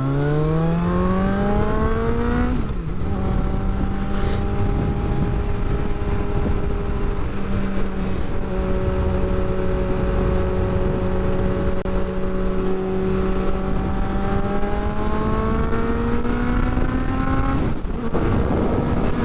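Motorcycle engine pulling hard after a countdown. Its pitch rises for about three seconds, breaks at a gearshift, and then holds fairly steady at cruising revs, with another shift near the end. Steady wind rush runs underneath.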